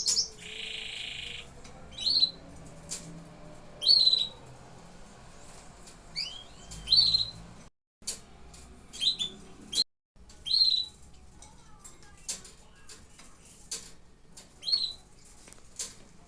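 Canaries giving short chirping calls about every second or two, with a brief buzzy trill near the start. Scattered sharp clicks and wing flutters from the birds bathing run between the calls.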